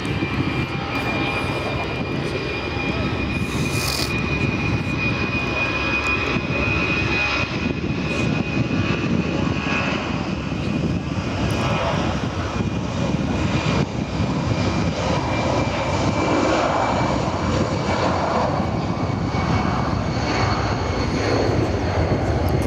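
Steady airliner noise of engines and airflow, even throughout, with a faint high whine running through roughly the first ten seconds.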